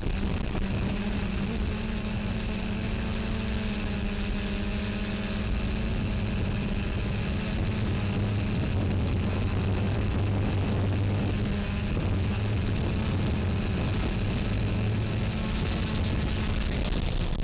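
X380 quadcopter drone's electric motors and propellers humming steadily, with gusty wind rushing over the microphone. A lower hum joins in about halfway through.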